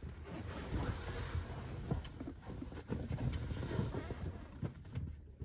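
Low, steady wind rumble buffeting the microphone, with scattered short knocks and rustles of handling.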